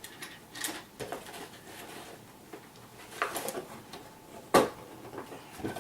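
Handling sounds of unpacking: light rustling of packaging with scattered small clicks, a quick run of clicks a little past halfway and one sharp knock near the end, as an item is worked out of a tight-fitting box insert.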